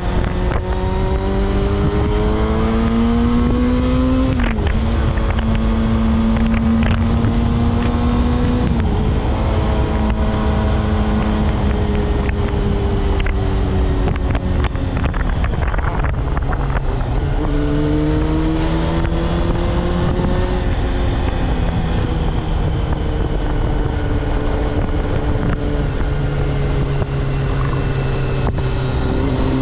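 Honda CBR250RR MC22 inline-four engine running under way, over a constant rush of wind. Its pitch climbs and then drops sharply at gear changes about 4 and 9 seconds in. It eases down through the middle, rises again around 17 to 20 seconds, falls off, then climbs once more just before the end.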